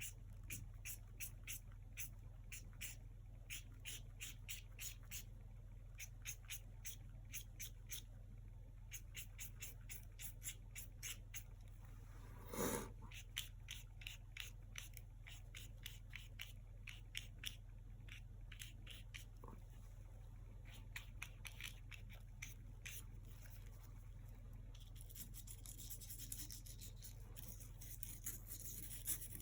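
Paintbrush strokes with acrylic paint on a canvas: short, quick swishes about two or three a second, with one louder rush near the middle, and denser, continuous scrubbing in the last few seconds. A faint low electrical hum runs underneath.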